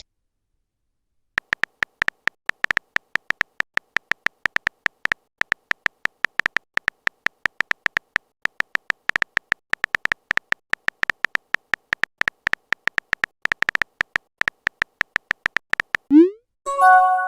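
Chat-app typing sound effect: a quick, irregular series of short high beeps for about fifteen seconds. Near the end a short rising swoop and a brief chime follow, the app's message-sent sound.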